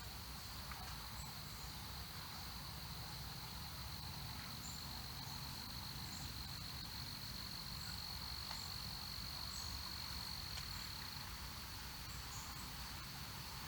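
Insects trilling in one steady, unbroken high tone, with a few short, faint higher chirps scattered over it and a low rumble beneath.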